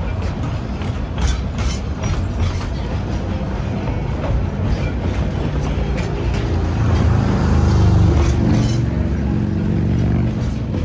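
Narrow-gauge steam train's passenger car rolling along the track: a steady low rumble with scattered clicks, swelling with a low hum from about six to ten seconds in.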